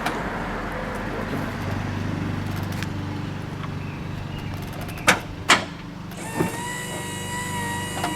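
Remote-operated power doors of a Honda Element wheelchair-ramp conversion working: a steady electric motor hum, then two sharp clunks about half a second apart about five seconds in and a softer knock a second later. A steady pitched tone sets in near the end.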